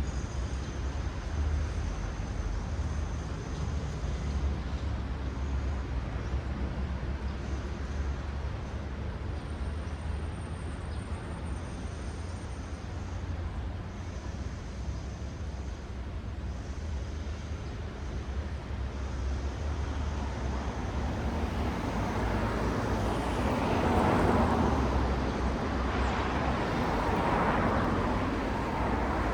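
Road traffic: a steady low rumble of cars on a city street, with two cars passing more loudly near the end, each swelling up and fading away.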